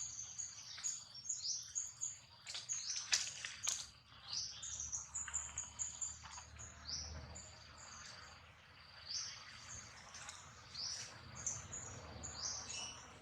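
Small birds chirping busily, a dense run of short, quick, high notes throughout, with a few sharp clicks about three seconds in.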